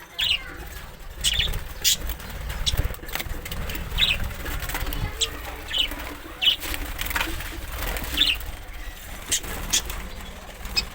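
A parrot flapping its wings, with short high chirps about once a second, over a low rumbling noise.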